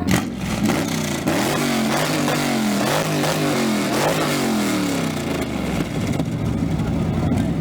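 Engine revved repeatedly through its exhaust, its pitch rising and falling about once a second, then settling to a steadier note near the end.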